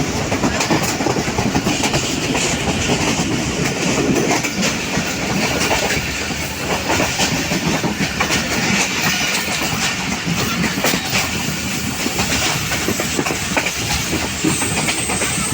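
Passenger train running along the track, heard from aboard a coach: a steady rumble with the wheels clicking over the rail joints.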